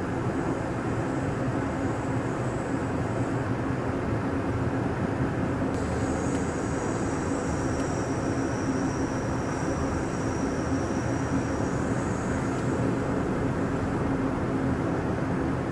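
Steady rumbling noise of the Amtrak Empire Builder passenger train, heard from aboard, with a constant low hum. Faint high-pitched whines come in about six seconds in and fade out near the twelve-second mark.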